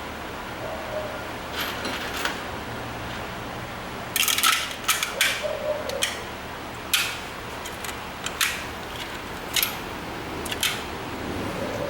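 Metal hand tools and engine parts clicking and clinking: a quick cluster of sharp clicks about four seconds in, then single clicks every second or so, as the engine's top end is put back together.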